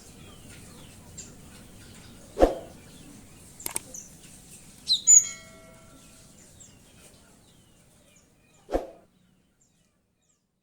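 Cinereous tit (gelatik batu) chirping faintly and repeatedly, with a louder short call about five seconds in. Sharp thumps break in about two and a half seconds in, again just before four seconds, and once more near the end, after which the sound cuts off.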